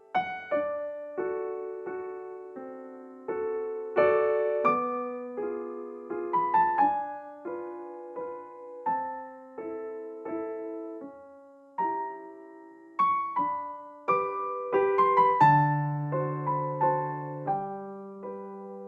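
Slow, gentle piano music: soft chords and a melody of single struck notes, each dying away after it is played, with deeper bass notes entering near the end.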